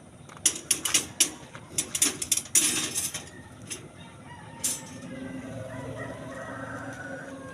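A quick run of sharp knocks in the first three seconds, then a rooster crowing in one long call near the end.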